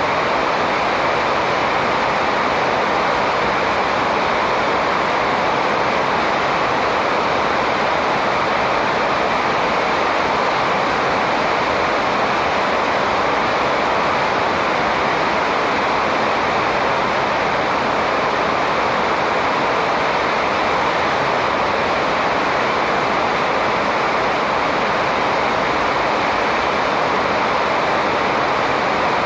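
Steady rushing noise, even and unchanging, with no distinct bird calls standing out.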